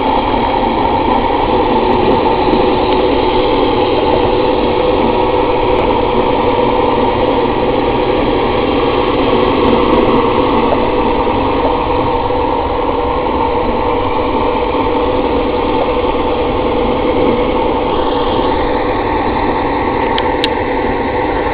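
Yager 11-inch thickness planer running under power, its 3/4 horsepower 1725 rpm electric motor driving the three-knife cutter head and feed rollers. The machine sound is loud and steady, with a slight change in tone about eighteen seconds in.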